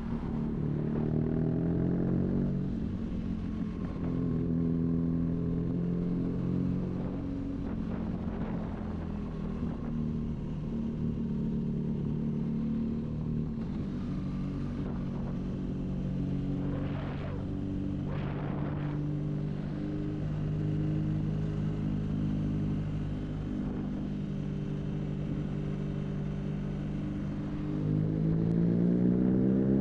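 BMW R nineT's boxer twin through an aftermarket Arrow high-mounted exhaust, cruising at fairly steady revs with small throttle changes. Near the end the revs climb as it accelerates.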